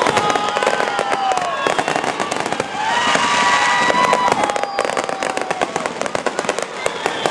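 Fireworks going off in a dense, continuous run of crackles and pops.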